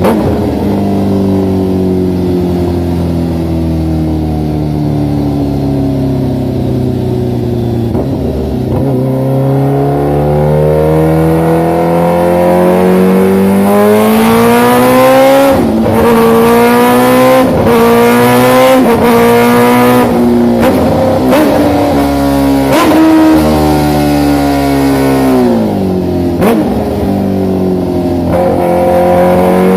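Big motorcycle's exhaust with the engine running under changing throttle. The pitch dips at first, then climbs slowly, and through the middle it rises and drops in a run of quick steps, about one a second, before falling and climbing again near the end.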